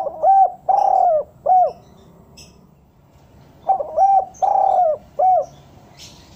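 Spotted dove (derkuku) cooing: two phrases, each of two short coos, a longer slurred coo and a final short coo, about two seconds apart.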